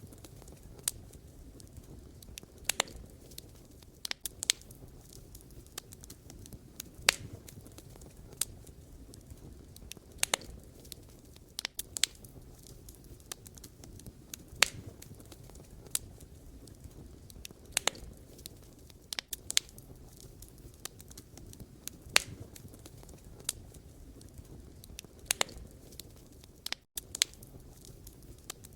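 Wood fire crackling: irregular sharp pops and snaps from burning firewood every second or two, over a steady low rumble of the flames.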